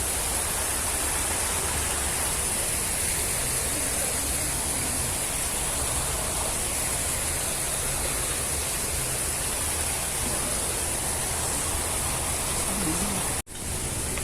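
Steady rushing of a waterfall and river water. The sound cuts out for an instant near the end.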